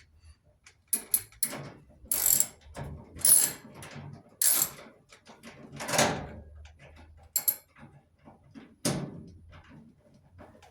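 Socket ratchet clicking in short, irregular bursts while bolts are worked loose on a clothes dryer's sheet-metal cabinet, with knocks of metal parts being handled in between.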